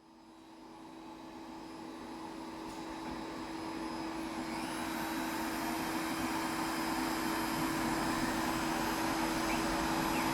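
CNC machining centre for composite panels running, a steady whirring machine noise with a strong low hum, growing louder over the first several seconds and then holding steady.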